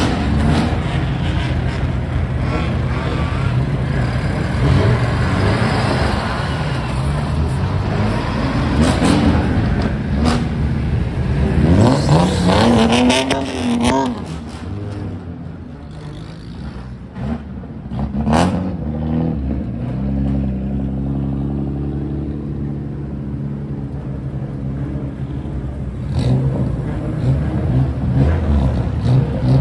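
Car engines running and being revved up and down, loudest about twelve seconds in, with a single sharp crack a little past halfway, then settling to a steady idle before picking up again near the end.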